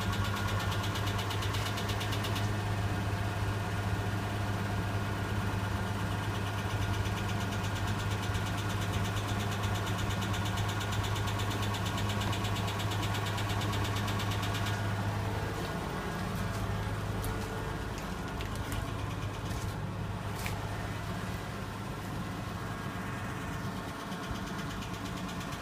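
Nissan RB20E inline-six engine idling steadily with a fast ticking from its hydraulic lifters, the lifter knock of a cold start in frost. About fifteen seconds in the ticking and upper hiss turn duller.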